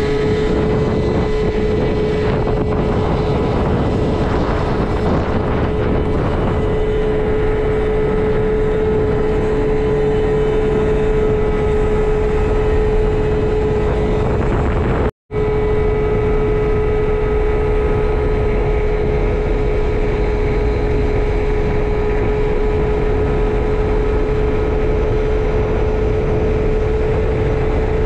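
Piaggio Vespa LX 50's 49 cc single-cylinder two-stroke engine, breathing through a Yasuni Z sport exhaust, running at a steady high pitch as the scooter holds a constant speed, with heavy wind noise. The sound cuts out completely for a moment about halfway through.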